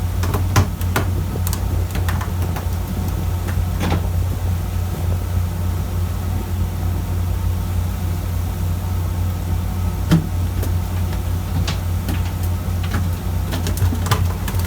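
Fishing boat's engine running at a steady drone, with a few scattered knocks on board.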